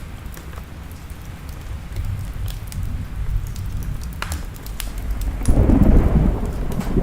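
Thunderstorm with rain and low rolling thunder that swells loudest about five and a half seconds in, over scattered sharp pops of a crackling wood fire.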